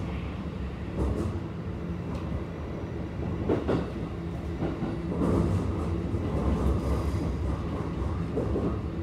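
Interior running sound of a Keikyu 1000 series stainless electric train with a Toyo IGBT-VVVF drive, travelling at speed. It is a steady low rumble of wheels on rail with a constant hum, broken by an occasional thump of the wheels over the track.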